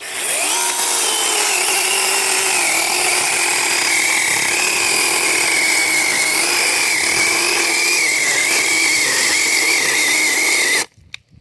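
DeWalt 8-inch battery-powered electric chainsaw spinning up and cutting through a thick branch. Its steady whine sags and wavers as the motor bogs down under load, then cuts off suddenly near the end when the trigger is released.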